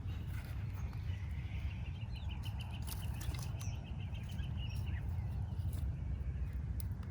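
Campfire crackling with scattered sharp pops over a low steady rumble. A bird gives a rapid trill of about six notes a second from about two to five seconds in.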